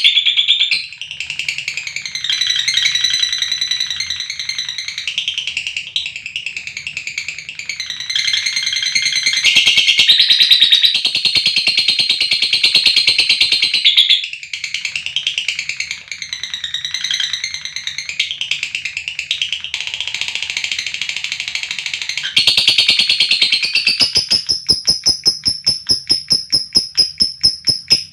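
Lovebirds calling: a dense run of shrill chattering and screeching calls that bend up and down in pitch. Near the end it turns into a fast, even rattling chatter, the long trill that keepers call 'ngekek'.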